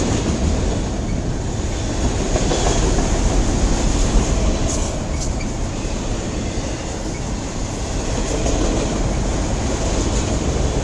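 Freight cars of a long mixed-freight train rolling slowly past, their wheels making a steady noise on the rails.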